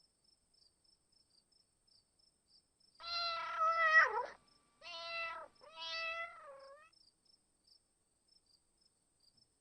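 Domestic cat meowing three times, starting about three seconds in; the first meow is the longest and loudest, the last trails off.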